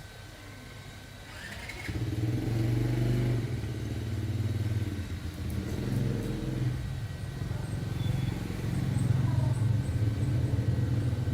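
A small engine, most likely the one on the rice threshing machine under repair, starts about two seconds in and keeps running, its level rising and falling.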